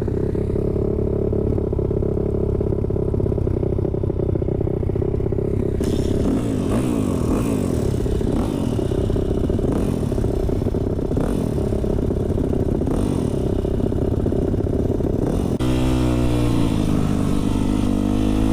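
Dirt bike engines running, with steady engine tones and, from about six seconds in, pitches rising and falling as engines rev. Near the end the engine note changes abruptly to a different, varying one.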